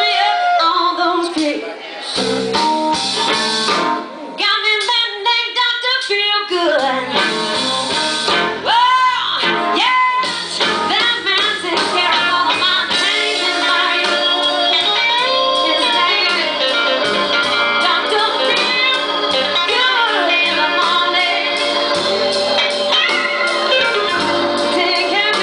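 Live band music: a woman singing over electric guitar and band, with many bending, sliding notes.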